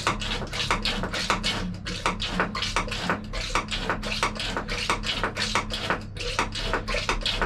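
Hand oil-extraction pump being worked quickly and steadily, a regular clicking of strokes about four times a second, drawing warm oil out of a narrowboat engine.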